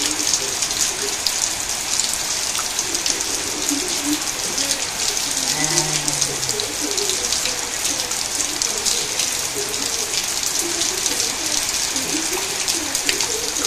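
Steady rain falling into a plastic basin of water and onto wet tiles and concrete: a dense, even patter of drops.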